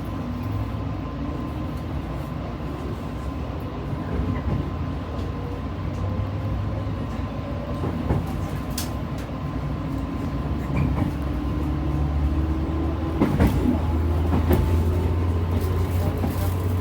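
Shinano Railway electric local train heard from inside the carriage, running with its motor whine slowly rising in pitch as it picks up speed over a steady low hum. A few sharp clacks sound in the second half.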